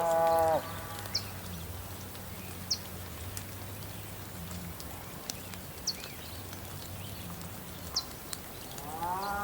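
Cows mooing: one long call ends about half a second in and another begins near the end. In between, short high chirps come every second or two over a low steady hum.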